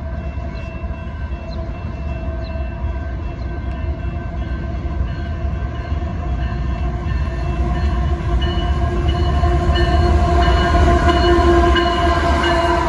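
Freight train led by GE diesel-electric locomotives, an AC4400CWM and an ES44AC, approaching with a low rumble and steady tones, growing louder until the lead unit passes close by near the end.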